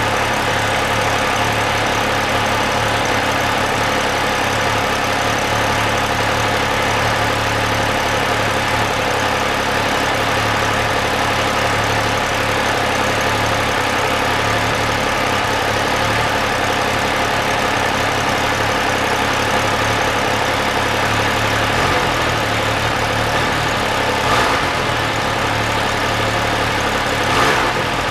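MV Agusta Dragster 800 RR's 798 cc three-cylinder engine idling steadily, with two brief sharp sounds near the end.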